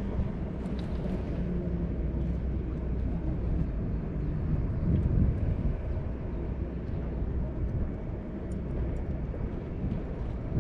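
Steady low rumble and hiss of open-air background noise, with no distinct events.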